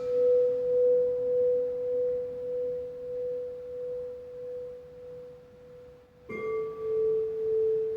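A singing bowl rings with a single pure, wavering tone that slowly fades. About six seconds in it is struck again and rings at a slightly lower pitch.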